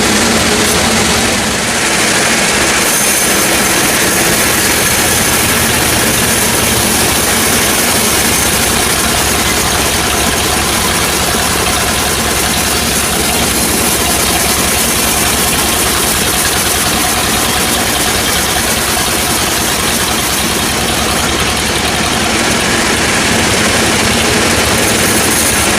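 Sawmill machinery running steadily: a loud, even engine sound with a fast low pulse.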